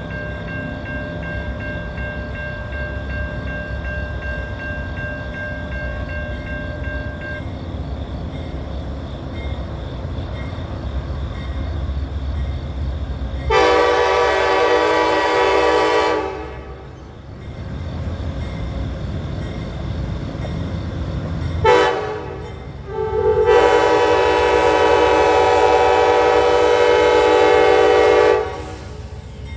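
Amtrak GE P42DC diesel locomotive approaching with a low engine rumble, sounding its multi-chime air horn: a long blast about halfway through, a short toot, then another long blast near the end.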